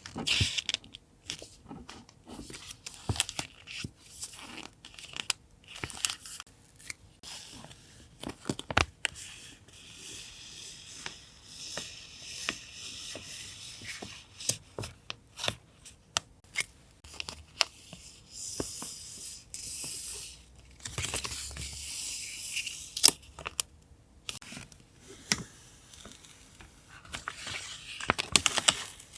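Paper being torn and handled for a collage: stretches of tearing and rustling broken by many sharp taps and clicks.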